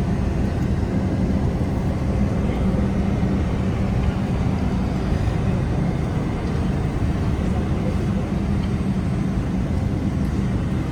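Steady rumble and running noise inside a moving public transport vehicle on its route.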